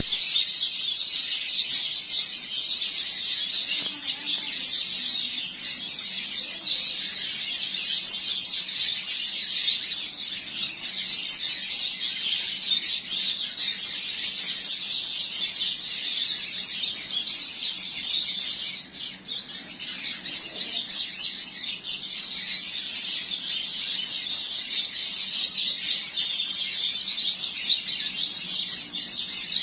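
Double-collared seedeater (coleiro) singing a rapid, high-pitched twittering song almost without pause, broken briefly about two-thirds of the way through.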